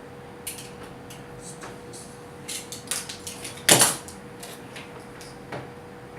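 Hands handling tools and cable at a workbench: scattered light clicks and rustles, with one louder clatter a little past halfway, over a faint steady hum.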